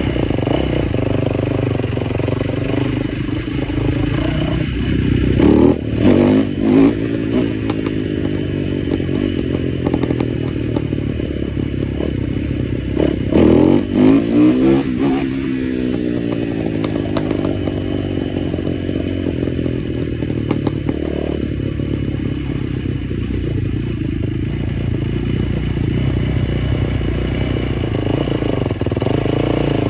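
Small motorbike engine running steadily, blipped up in quick revs about six seconds in and again around thirteen to fourteen seconds, with the pitch falling back afterwards.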